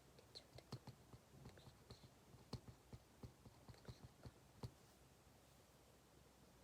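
Faint, irregular small clicks and taps at a desk, a scattering of them every fraction of a second that thins out about five seconds in.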